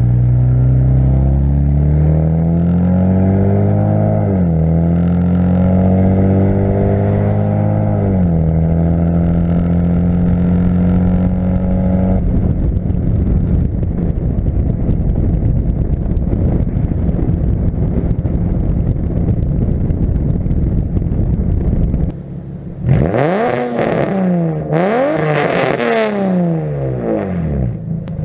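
Nissan 350Z's 3.5-litre V6 running through a near-straight-piped exhaust: shorty headers, test pipes and a Y-pipe into a single 3-inch pipe with one small resonator. For the first dozen seconds the exhaust note climbs slowly and drops back twice. Then comes a rougher, steadier stretch, and in the last six seconds a string of quick revs that rise and fall sharply.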